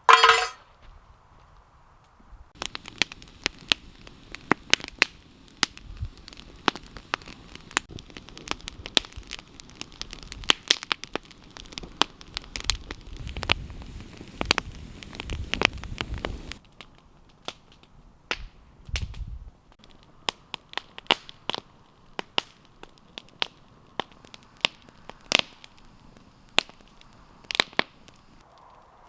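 Wood campfire crackling, with sharp irregular pops scattered throughout. A low rumble underlies the crackle midway.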